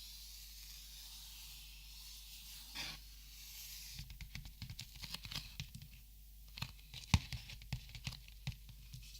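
Copic markers being handled: a short rustle, then two runs of quick, sharp clicks and taps, the sharpest about seven seconds in.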